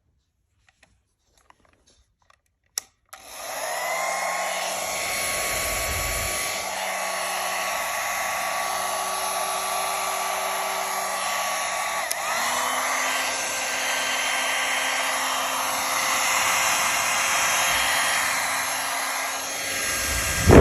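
Soviet Volshebnitsa-2M hair dryer switched on with a sharp click about three seconds in. Its motor spins up and runs with a steady whirring fan noise. About twelve seconds in, the pitch glides up and holds higher.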